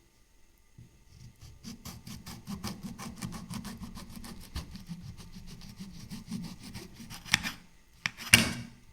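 Rapid, rhythmic rubbing strokes, about seven a second, for several seconds, followed by two sharp knocks near the end, the second the loudest.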